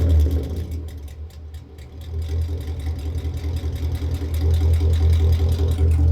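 Car engine revved up against a rev limiter set at about 2,500 rpm. The revs fall away briefly about a second in, then climb again and hold steady at the limit.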